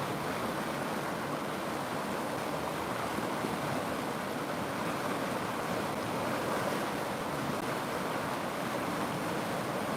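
River water running, a steady, even rush with no breaks or changes.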